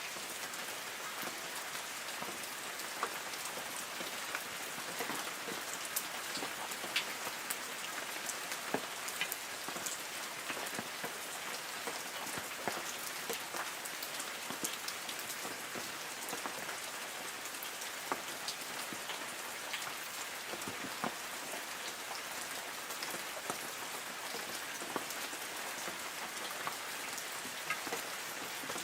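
Light rain falling steadily on forest trees, a constant hiss with many separate drops pattering on leaves.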